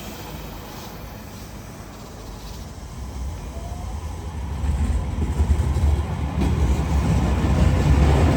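Electric train pulling away: a low rumble of wheels and running gear that grows steadily louder from about three seconds in, with a faint motor whine rising in pitch as it accelerates.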